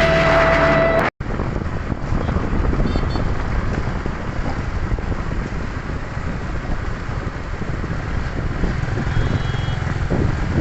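Background music cuts off about a second in, followed by steady motorcycle riding noise: engine and road noise with wind buffeting the microphone.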